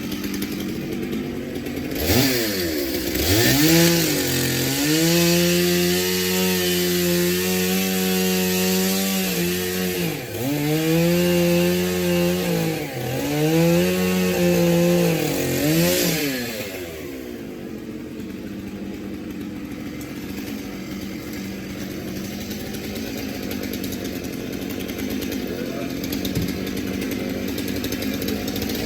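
Chainsaw revving up about two seconds in and running at high speed, its pitch dipping briefly several times as it works, then dropping back at about sixteen seconds to a lower, steady run.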